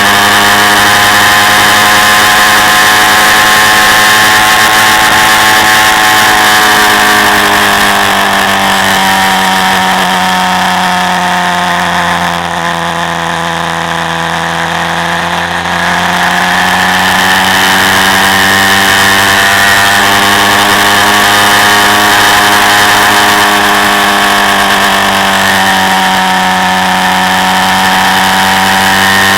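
Quad bike engine running under way, its pitch easing down and quieter about halfway through as the revs drop, then climbing back up and holding steady for the rest.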